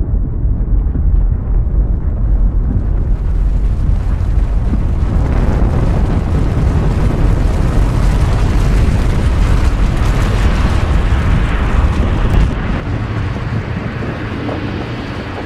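Strong blizzard wind buffeting the microphone: a continuous deep rumble with a rushing hiss that builds over the first few seconds, then eases a little near the end.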